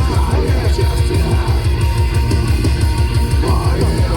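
Live heavy rock band playing loud, with distorted guitars over a fast, steady pounding drum beat.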